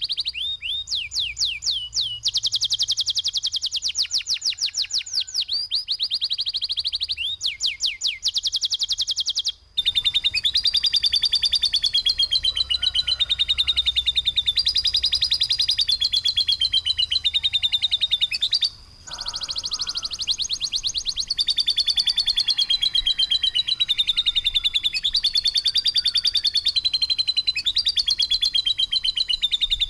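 Songbird masteran recording of harsh, rapid-fire 'tembakan' song. At first it is a fast series of high downslurred notes, then a dense buzzy trill that steps up and down in pitch. The sound drops out abruptly for a moment about a third of the way in and again near two-thirds, like edit splices.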